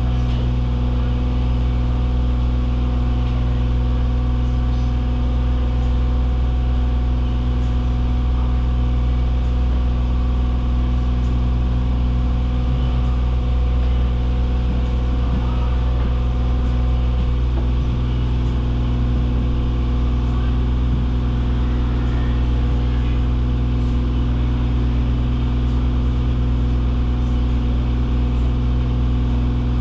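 Steady low mechanical drone of the tour boat's engine machinery, running evenly with no change in pitch.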